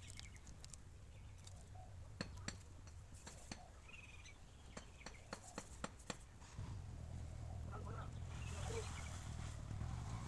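A scattered run of light clicks and taps, about a dozen over a few seconds, followed by a low steady hum that starts about two-thirds of the way in.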